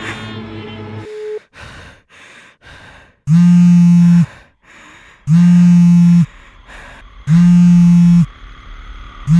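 Mobile phone vibrating: a loud buzz about a second long, repeating every two seconds from about three seconds in. Before it come a short tone and a few faint, brief sounds.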